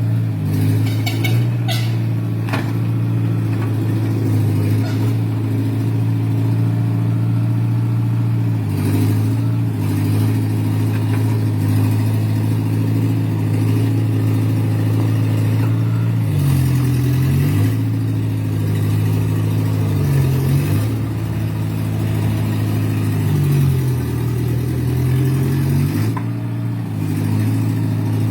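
JCB excavator's diesel engine running steadily under work, its pitch sagging and recovering three times in the second half as the digging load bears on it. A few light clanks come about a second or two in.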